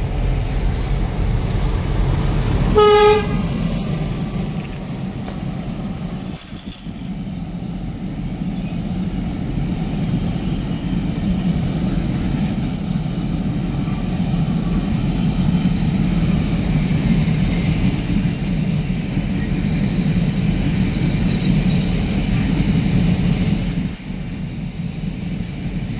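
Diesel locomotive horn gives one short blast, then a diesel-hauled freight train of loaded-looking open coal hopper wagons passes close by: a steady low rumble of the locomotives' engines and the wagons' wheels on the rails.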